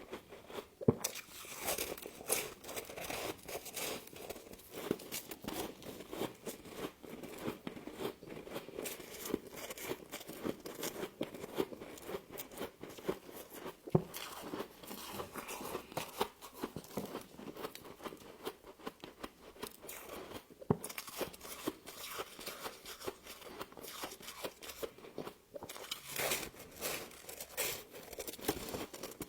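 Frost being bitten and chewed close to the microphone: a dense, irregular run of crisp crunches, with a couple of sharper, louder bites.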